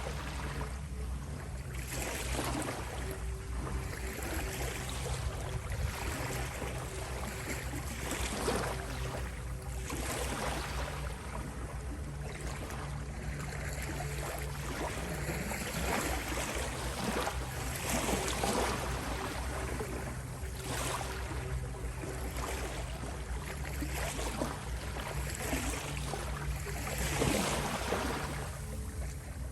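Ocean waves washing in and splashing, one surge every two or three seconds, over steady sustained tones.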